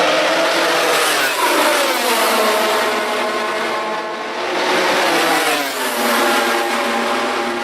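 MotoGP racing motorcycle engines running at high revs. The pitch falls steeply about a second in and again around five seconds in, then climbs back up.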